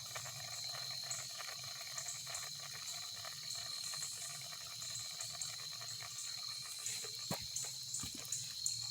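Insects chirping steadily: a constant high trill with faster pulsing chirps above it. Two short knocks come about seven and eight seconds in.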